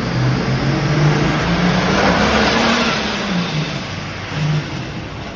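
Super Farm class pulling tractor's diesel engine revving, its pitch climbing over the first two seconds or so, then easing back down.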